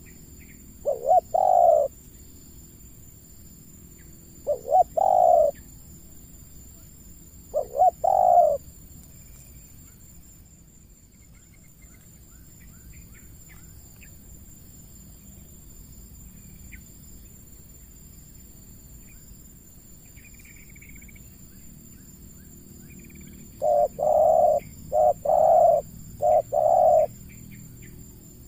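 Spotted dove cooing: three short phrases spread over the first nine seconds, then a quicker run of about four coos near the end. A steady high-pitched whine and faint small-bird chirps run underneath.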